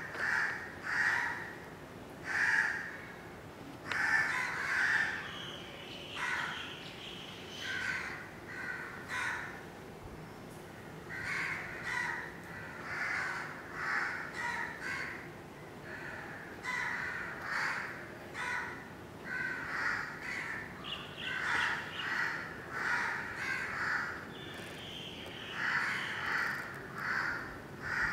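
Birds calling in a long run of short calls, roughly one a second, some coming in quick groups.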